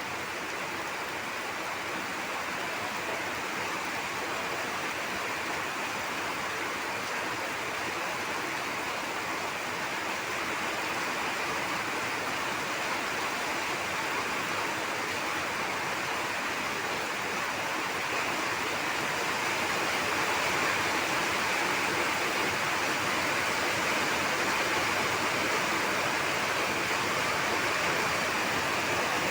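Heavy rain pouring down: a steady, even hiss that grows slightly louder about two-thirds of the way through.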